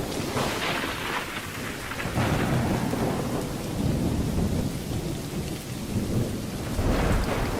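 Steady rain falling, with a low rolling rumble of thunder that swells again near the end.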